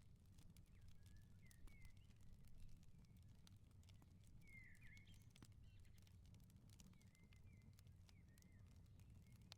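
Faint crackling of a wood fire, with frequent small snaps and pops over a low steady rumble. Short bird chirps come and go throughout.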